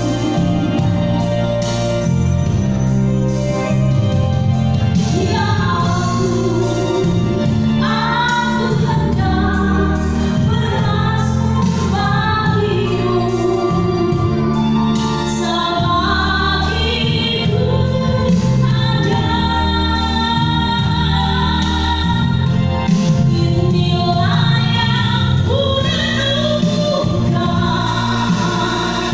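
A woman singing a melody with long held notes over instrumental backing with a steady bass line.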